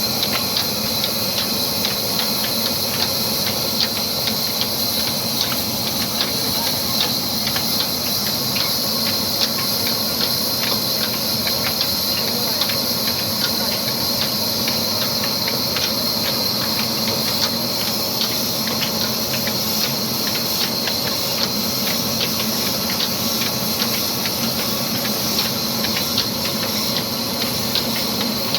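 Old 22 hp, 300 rpm black diesel engine running steadily and driving a wood-cutting machine. It makes a continuous hissing clatter with a dense run of rapid clicks and knocks.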